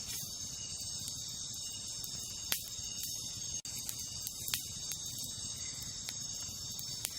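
Steady high chirring of a night insect chorus, crickets, with a wood campfire giving a few sharp crackles and pops, the clearest about two and a half and four and a half seconds in.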